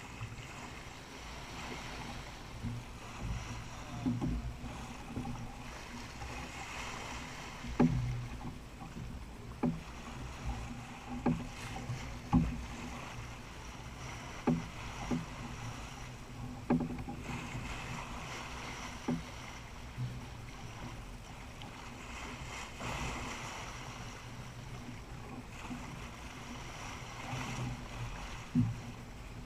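Jeanneau 39i sailboat underway: water washing along the hull over a steady low hum, with irregular sharp knocks and slaps every second or two.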